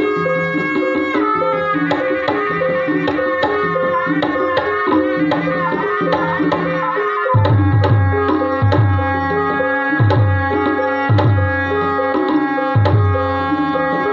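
Javanese gamelan music for an ebeg dance: ringing tuned percussion plays a repeating melody, and deep drum strokes join about halfway through, falling roughly once a second.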